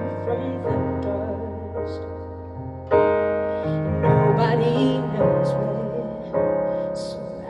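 Live band playing the song's instrumental ending, led by electric piano. Sustained chords change about once a second over held low notes.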